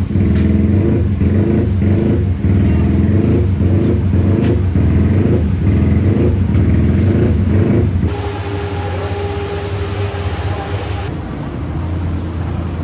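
Racing motorcycle engine running steadily at the pits, loud with a pulsing beat. About eight seconds in it drops away to a quieter running sound with a thin steady whine and a hiss.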